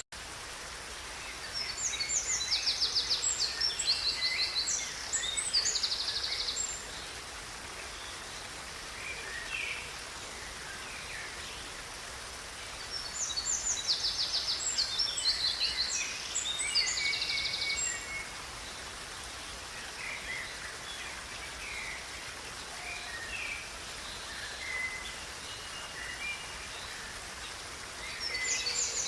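Songbirds singing over the steady rush of a flowing river. Two loud bouts of fast, high trilled song last a few seconds each, with softer scattered chirps between them.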